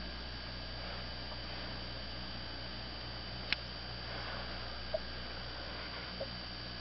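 Steady electrical hum with a constant faint high tone, and one sharp click about three and a half seconds in.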